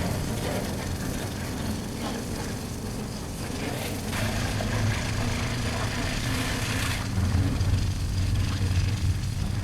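Motorcycle engine running steadily, heard from a helmet chin-mount camera, with a rushing noise over it that swells and eases a few times.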